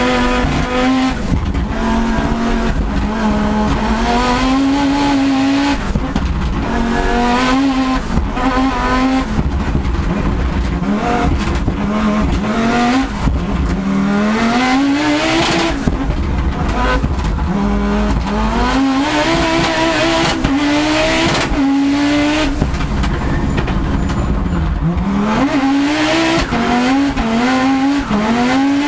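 Audi Quattro S1 rally car's turbocharged five-cylinder engine heard onboard at full attack: the revs climb and drop back again and again as the gears are shifted up and down, with a high whistle rising over each pull.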